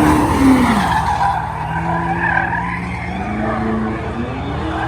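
Car engine under racing use: its pitch drops sharply as the driver lifts off, holds low, then climbs again as it revs back up, with tires squealing.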